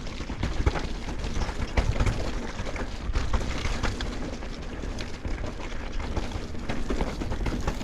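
Mountain bike rolling fast down a rough dirt trail: tyres rumbling over the ground, with a constant clatter of small knocks and rattles from the bike.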